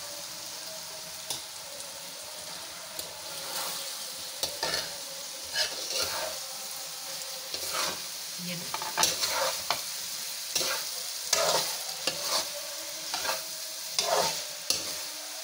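Fried okra being stirred into tomato-onion masala that is sizzling in oil in a metal pan: a steady sizzle, joined from about four seconds in by irregular scrapes and clicks of the spatula against the pan.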